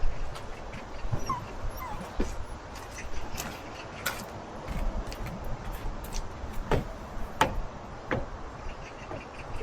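A toy poodle whimpering briefly, two short high squeaks about a second in, over a steady background hiss. Scattered sharp clicks and knocks, the loudest near the end.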